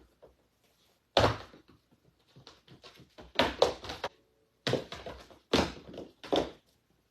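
A series of about seven sharp knocks and thumps in a small room, the first and loudest about a second in, and several coming in quick succession a few seconds in.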